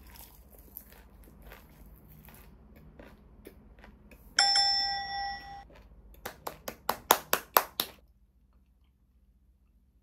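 Faint small clicks, then about four seconds in a single bright bell-like ding that rings for about a second. It is followed by a quick run of about nine sharp clicks coming closer together, which stop abruptly.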